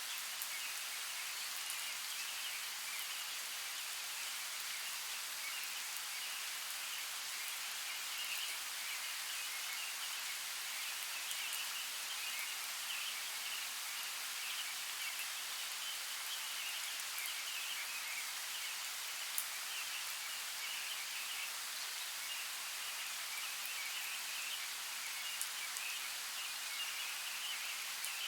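Forest creek water running in a steady, even hiss, with a faint flickering chirr and a few light ticks over it.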